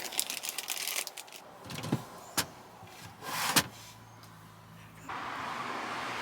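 A run of clicks and knocks from handling fittings inside a minivan, a sharp click and then a heavier thump, followed by a low steady hum; about five seconds in a steady rushing noise comes on and keeps going.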